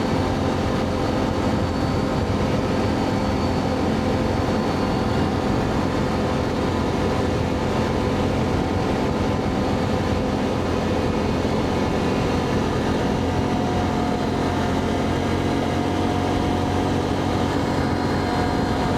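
ATV engine running at a steady cruising speed on a back-road ride, with constant wind and tyre noise.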